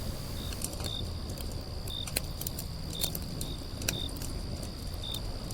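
Outdoor nature ambience: a steady low rush with a faint, steady high whine, and short high chirps repeating irregularly every half second or so.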